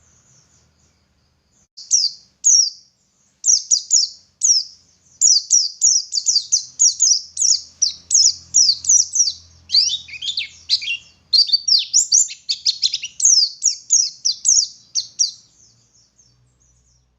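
White-eye (pleci) singing a long, fast run of high chirps made of quick downward-slurred notes, starting about two seconds in and fading out near the end.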